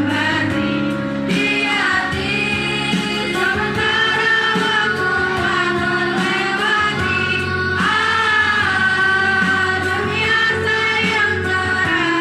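Children's choir of sixth-grade pupils singing a song together over steady instrumental accompaniment.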